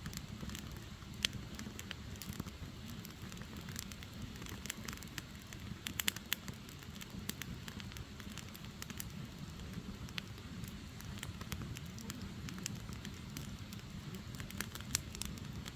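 Firewood burning, crackling with irregular sharp pops and snaps over a steady low rumble of the flames, the pops bunching together about six seconds in.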